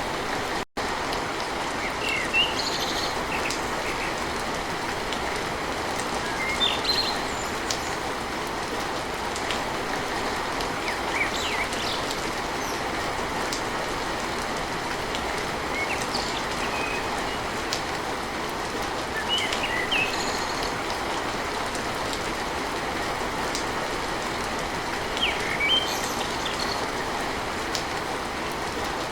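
Steady heavy rain pattering on a tin roof, with scattered short high chirps over the top. The sound cuts out for an instant just under a second in.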